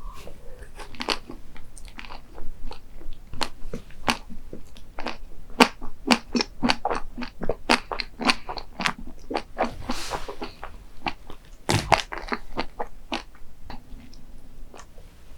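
A person biting and chewing crunchy dessert close to the microphone: a dense run of crisp crunches and wet chewing clicks, with one louder crack near the end.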